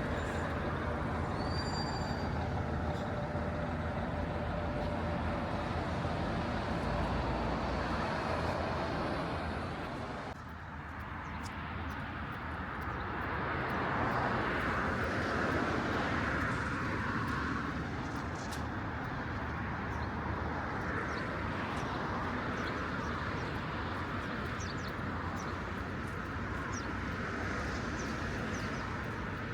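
City street ambience: steady traffic noise, with one vehicle passing more loudly partway through.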